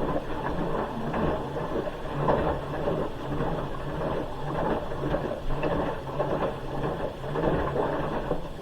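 Hoover H-wash 300 Plus washing machine drum tumbling the load at low speed, a short tumble of the kind it does shortly before the final spin. The churning mechanical running swells and dips about once a second.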